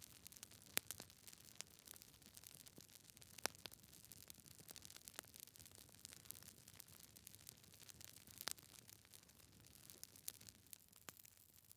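Wood fire in a fireplace crackling quietly: irregular sharp pops and snaps over a faint steady hiss, with a few louder pops scattered through.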